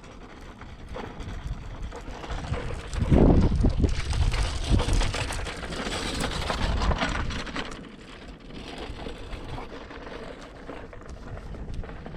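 Wind buffeting the microphone outdoors, with uneven low rumbles about three seconds in, over a rushing hiss that swells in the middle and then eases.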